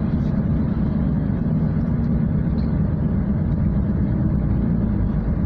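Steady low rumble of a car heard from inside the cabin while driving: road and engine noise.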